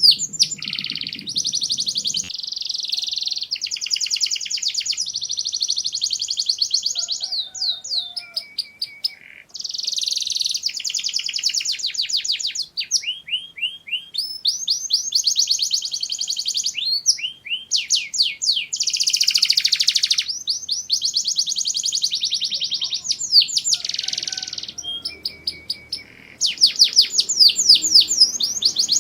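Domestic canary singing a long, continuous song of rapid trills and rolls: phrases of fast repeated notes alternating with quick sweeping glides, separated by brief pauses.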